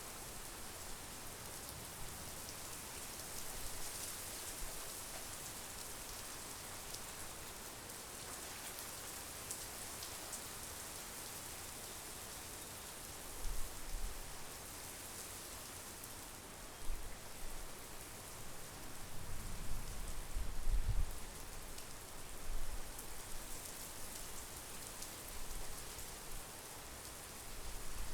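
Steady monsoon rain falling, a continuous hiss with fine patter of drops. A few brief low rumbles come through, the strongest about twenty seconds in.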